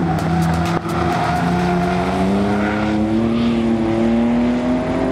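Ford Fiesta ST150's 2.0-litre four-cylinder engine accelerating out of a corner, its pitch climbing steadily as the revs build.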